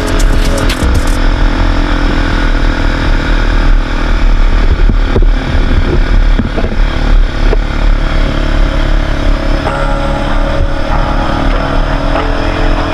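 Quad bike (ATV) engine running loud and steady under way.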